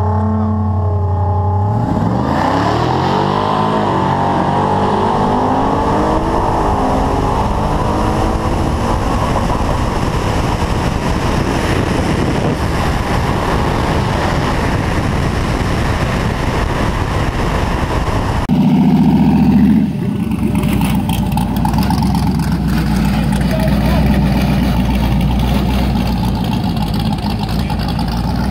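Street-race car idling on the line, then launching hard about two seconds in, its engine revving up and dropping back at each of several gear shifts before running flat out with heavy wind and road noise. After an abrupt change near the end of the run, another car's engine is heard running lower and steadier.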